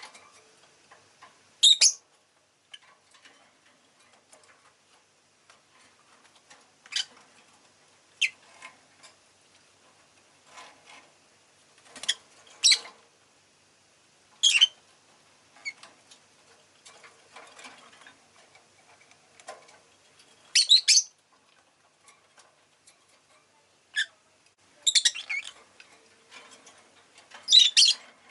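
Rosy-faced lovebird giving short, sharp, high chirps at irregular intervals, with faint ticking clicks in between. The calls come more thickly near the end.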